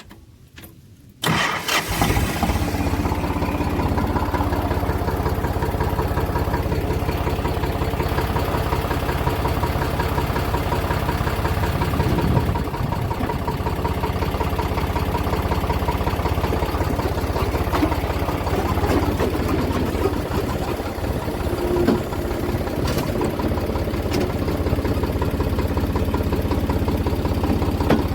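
Eicher 485 tractor's air-cooled diesel engine starting about a second in, then running steadily at idle.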